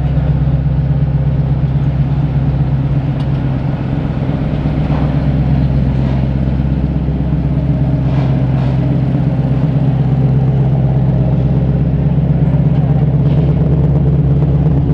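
Twin-turbocharged and supercharged engine of a 1965 Mustang Fastback restomod idling steadily, with a deep low rumble and no revving.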